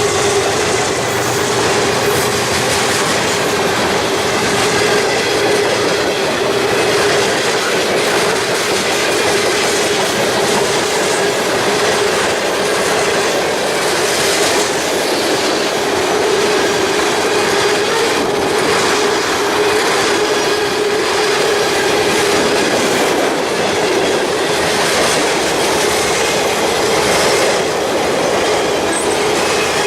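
Railroad cars rolling past at steady speed, their steel wheels clicking over the rail joints, with a steady tone running under the wheel noise.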